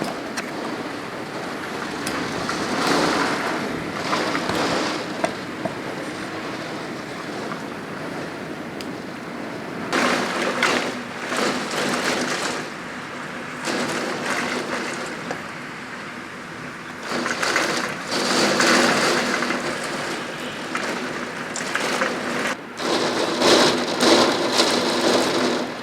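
Typhoon wind and rain, the wind rising in strong gusts several times, the loudest about two-thirds of the way through and near the end.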